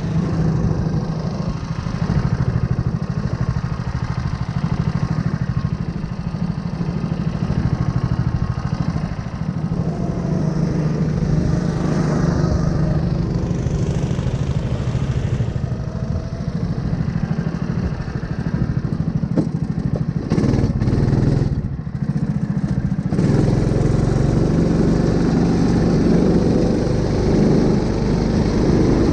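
A 9 hp single-cylinder engine running steadily with a rapid, even firing beat. It dips briefly about three quarters of the way through, then runs a little louder.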